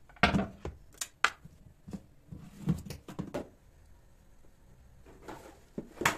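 A series of short knocks and clunks, about six in all, irregularly spaced, with a longer gap of quiet in the second half.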